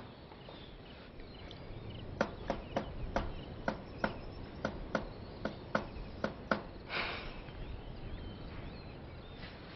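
Hard-soled footsteps, about three sharp steps a second for some four seconds, then a brief rustle, with faint bird chirps.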